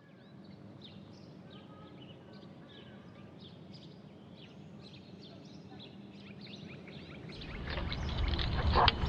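Small birds chirping faintly, many short high chirps. Near the end a low rumble grows louder and there is a sharp click shortly before it ends.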